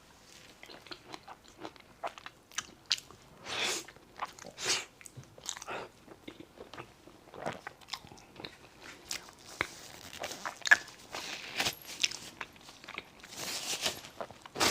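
Close-miked eating: bites and chewing, heard as many short sharp clicks from the mouth and a few longer, noisier wet chewing sounds.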